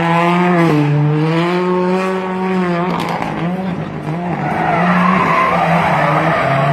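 Car engine revving hard. Its note drops briefly about a second in, climbs again, then cuts off about three seconds in. After that comes a rougher mix of engine and tyre noise.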